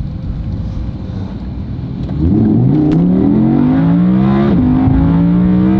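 Supercharged Lamborghini Huracán V10 with a custom titanium center-mount exhaust, heard from inside the cabin on its first run with a new ECU tune. It runs lightly, then about two seconds in it accelerates hard with a rising pitch. An upshift drops the pitch briefly about four and a half seconds in before it climbs again.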